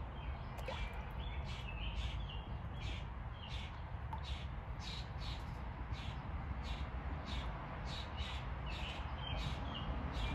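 Outdoor ambience: a bird calling over and over, about twice a second, with a few brief higher chirps, over a steady low rumble.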